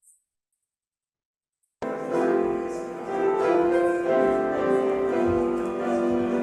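Silence, then piano music cuts in abruptly, mid-phrase, about two seconds in, playing slow sustained notes and chords.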